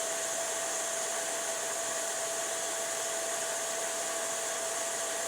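Small electric kitchen machine's motor running steadily with a high whine while making carrot, apple and ginger juice.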